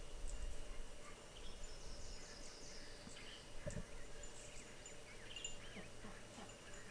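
Faint outdoor ambience with scattered small bird chirps and short call notes.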